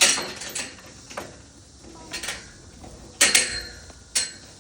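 A series of sharp clattering knocks of hard objects, about five in all, the loudest right at the start and another about three seconds in.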